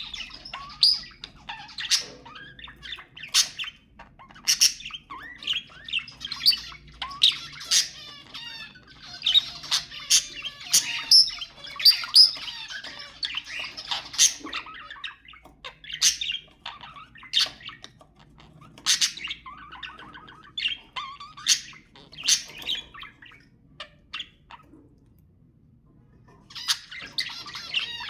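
Budgerigars chattering and warbling, with frequent sharp chirps and squawks and stretches of dense rapid twittering. The calling stops for about three seconds near the end, then starts again.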